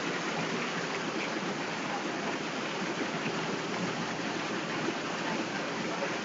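Heavy rain falling steadily on pavement and trees, an even dense hiss, with water running over the flooded ground.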